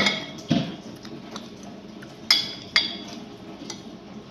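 Cutlery clinking against a dish: about four sharp clinks, each with a short ring, spaced irregularly.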